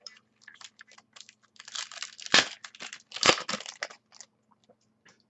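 A trading-card pack wrapper being torn open and crinkled, a rapid crackling run of a couple of seconds with scattered clicks of card handling before and after.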